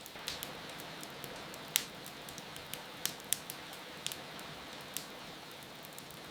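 Wood fire crackling with irregular sharp pops, the loudest about two seconds in, over a steady hiss of falling rain.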